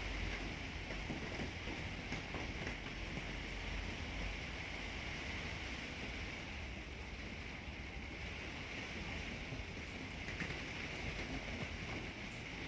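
Steady rain falling in a moderate wind, an even hiss with a low rumbling of wind that is strongest in the first few seconds and then eases.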